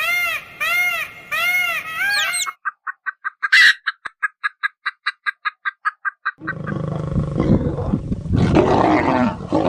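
A series of animal calls. First a run of short calls that rise and fall in pitch, about two a second; then a fast clucking run of short pulses, about five a second; then, from about six and a half seconds in, a deep rough call like a roar.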